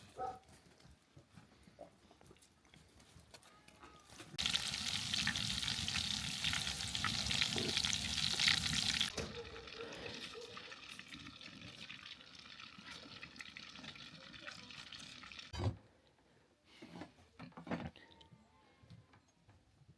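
Liquid pouring for about five seconds, then a quieter steady hiss for several seconds, cut off by a single thump near the end, with a few light knocks after.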